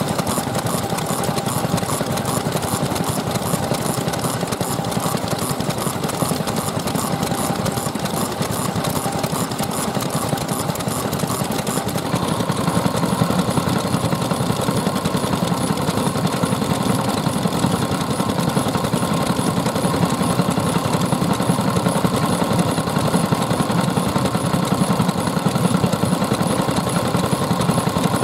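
Old Japanese stationary petroleum engines (hatsudoki) running steadily. About twelve seconds in, the mix of engine beats changes as a different engine comes to the fore.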